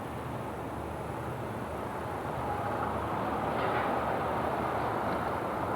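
Steady low rumble of a motor vehicle with road or traffic noise, growing a little louder about three seconds in.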